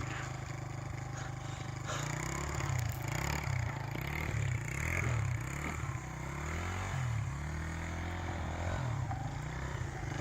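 Honda XR100 dirt bike's single-cylinder four-stroke engine running, steady for about two seconds, then revving up and down repeatedly.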